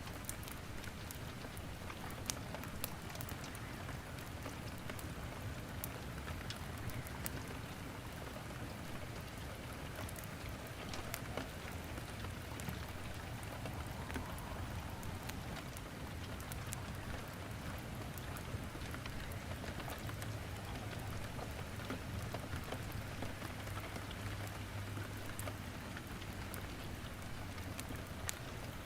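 Steady rain falling, mixed with a wood fire crackling in a fireplace: an even hiss of rain with scattered sharp pops and snaps.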